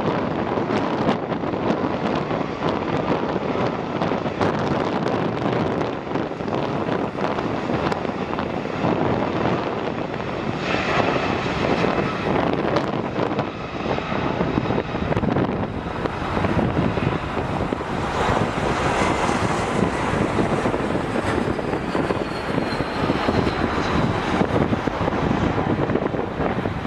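Jet airliner engines passing close by, a loud rumble with a high whine that comes in about ten seconds in; near the end the whine slides down in pitch as the plane goes by. Wind buffets the microphone throughout.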